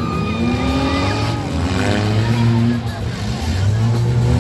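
Several demolition derby car engines running and revving at once, their pitches rising and falling over one another.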